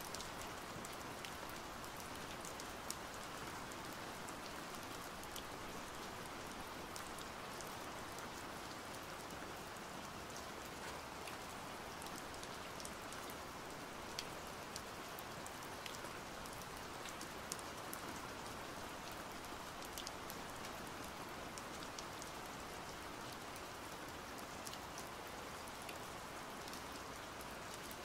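Steady rain falling: an even hiss with scattered sharp drop ticks at irregular moments.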